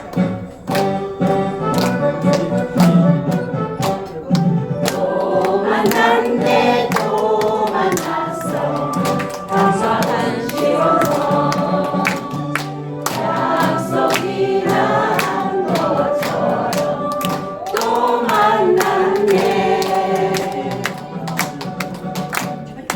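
Harmonica ensemble playing a tune in unison over a backing track with a steady beat, the many reeds blending into a full, choir-like sound with vibrato.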